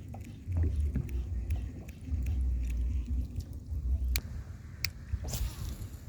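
Strong wind buffeting the microphone in low, gusting rumbles, with scattered sharp clicks and knocks from the kayak and gear, a few louder ones about four to five seconds in, the last trailing into a brief hiss.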